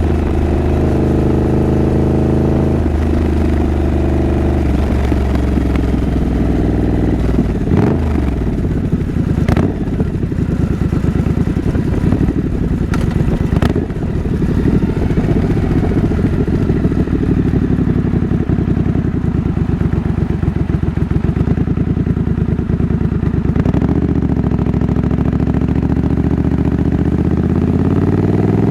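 Triumph Scrambler 900's 900 cc parallel-twin engine running under way. There are a few sharp knocks between about eight and fourteen seconds in, and the revs rise near the end.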